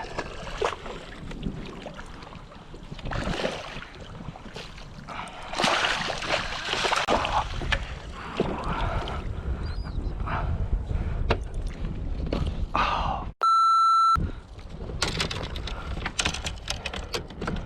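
Water sloshing and splashing around a kayak, with scattered knocks and clicks. About three-quarters of the way through, a loud, steady electronic beep lasts just under a second.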